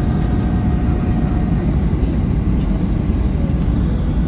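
Steady low rumble of a Boeing 737-700 in flight, jet engines and airflow heard from inside the passenger cabin.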